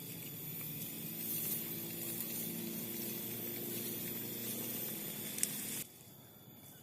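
Tractor engine running steadily and faint, under a hiss. It drops away abruptly near the end.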